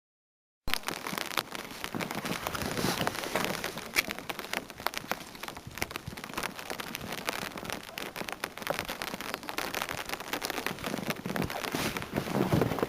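Heavy storm downpour pelting hard surfaces: a dense crackle of countless small impacts that cuts in abruptly just under a second in and swells slightly near the end.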